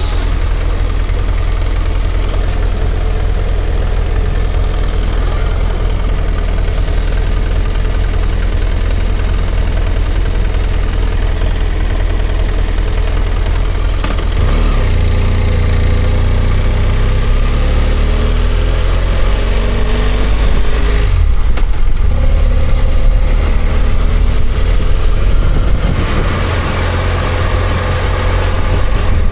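BMW F800GS parallel-twin motorcycle engine running with a steady low rumble, then from about halfway through pulling away with its pitch rising, a brief drop about two-thirds through as it shifts up, and rising again.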